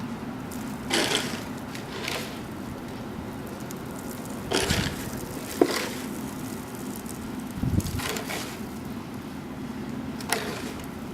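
Car running at low speed through snow: a steady engine and road hum, with a short swish every few seconds, one sharp click about halfway through and a low thump a couple of seconds later.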